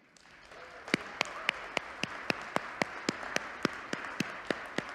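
Audience applauding, building up over the first second. Sharp clicks about four a second stand out over the clapping from about a second in.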